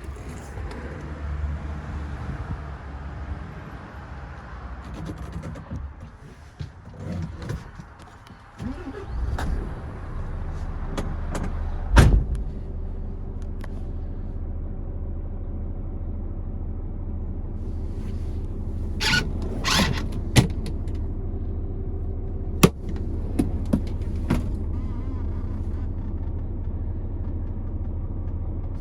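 Renault T460's 460 bhp Euro 6 diesel engine running at a steady low idle, with scattered clicks and a sharp knock about twelve seconds in, and a few more knocks later on.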